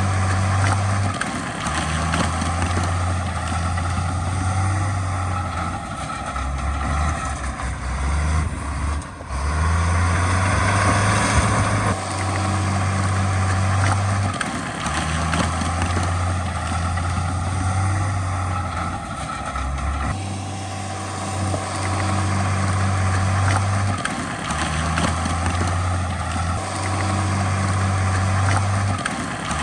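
Heavy diesel engines of earthmoving machinery running under load, a deep steady drone whose pitch and level shift in steps every few seconds.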